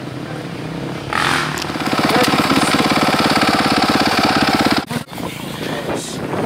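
Motocross bike engine close by, coming in about a second in and running hard and steady with an even pulse. It cuts off abruptly a little after four and a half seconds, and a quieter engine sound carries on after that.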